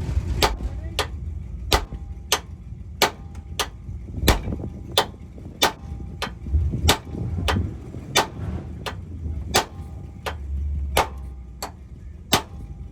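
Hammer striking steel suspension and frame metal about once every two-thirds of a second, each blow sharp with a brief metallic ring. It is being used to bend the frame and push in a control-arm bolt that rubs the inside of the wheel.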